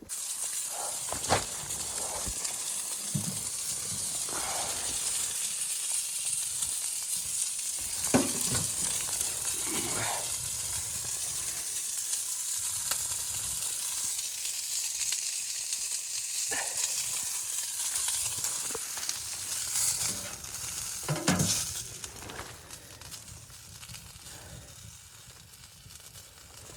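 Food sizzling in a hot pan, a steady frying hiss with a few scattered pops and knocks, dying down near the end.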